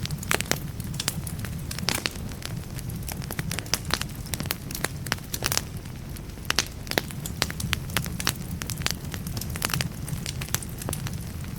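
Firewood burning in a fireplace, crackling: irregular sharp pops and snaps, sometimes several close together, over a steady low rumble of the flames.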